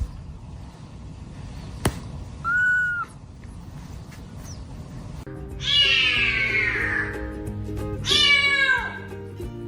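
A cat meowing: a short high meow a little before halfway, then two long drawn-out meows that fall in pitch near the end, the second shorter than the first. Light background music starts about halfway and runs under them.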